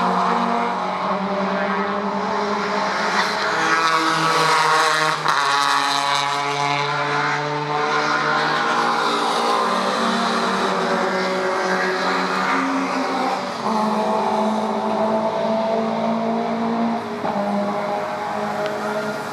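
Several classic DTM touring cars racing past at high revs, their overlapping engine notes rising and falling as they go by, fading near the end.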